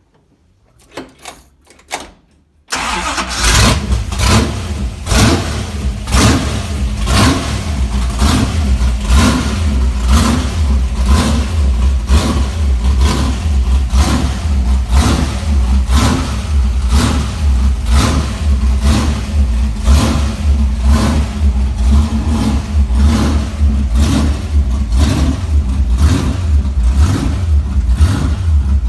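1965 Dodge Coronet's 440 big-block V8 on a tunnel ram catching on a cold start about three seconds in, after a few faint clicks. It then runs loud with a regular pulsing, about one and a half pulses a second.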